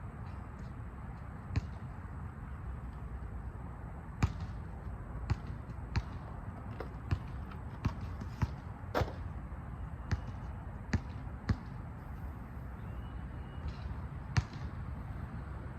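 Basketballs bouncing on a court: about a dozen sharp thuds at uneven intervals, over a steady low rumble.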